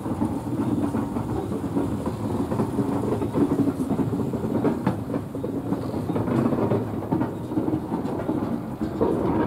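Freight train of flat wagons loaded with armoured vehicles rolling past: a steady rumble of steel wheels on rail, with a few clicks over the rail joints.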